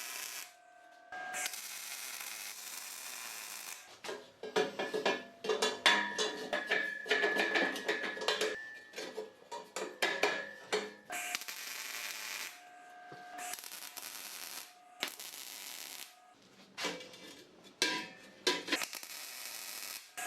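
Metal parts clinking and rattling, many quick clicks with short ringing tones, broken by several hissing stretches of a second or two.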